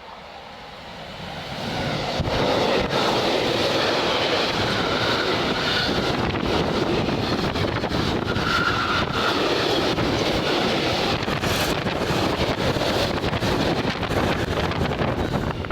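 Freight train passing through at speed: the noise swells over the first two seconds into a steady rumble and clatter of wheels and wagons, with wind buffeting the microphone.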